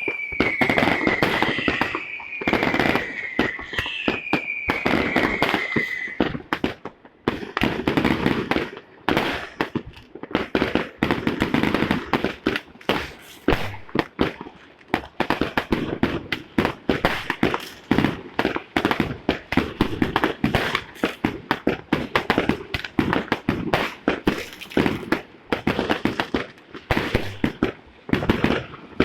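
New Year fireworks and firecrackers going off in a dense, irregular barrage of bangs, pops and crackles. During the first six seconds, high whistles slide slowly downward in pitch over the bangs.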